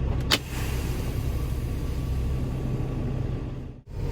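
Semi truck's diesel engine idling with a steady low rumble, with a sharp click just after the start. Near the end the sound drops out briefly.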